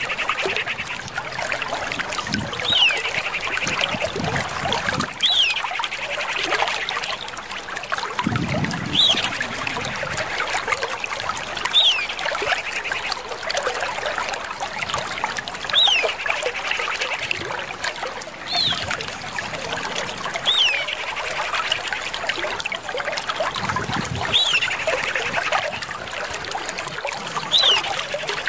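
Common iora calling: a sharp down-slurred whistle, each followed by a short chattering trill. The pair repeats about ten times, every two to four seconds.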